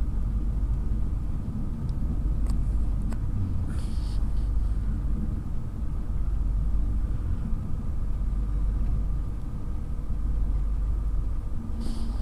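Low, steady rumble of an intercity train's wheels and running gear, heard inside the carriage as it rolls slowly along a station platform. Brief high-pitched squeaks come about four seconds in and again near the end.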